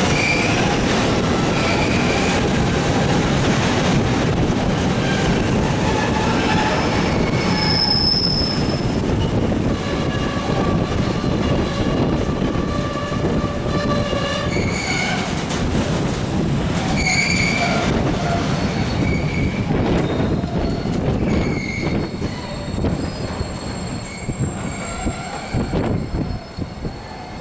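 Container wagons of a freight train rolling past, steel wheels running on the rails with short high squeals now and then. The sound fades over the last few seconds as the end of the train goes by.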